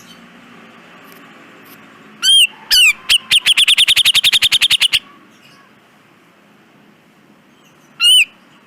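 Cucak jenggot (grey-cheeked bulbul) calling: two loud call notes, then a rapid rattling run of about ten sharp notes a second for some two seconds, and one more single call near the end, over a steady background hiss.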